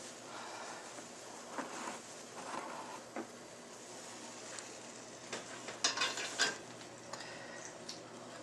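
Scattered scrapes and light clinks of a utensil against a cooking tray and plate over a steady low hiss, with a few louder clatters a little past the middle.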